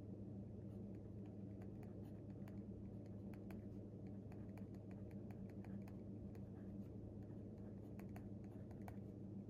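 Faint, irregular light clicks and taps of desk work, several a second, over a steady low hum.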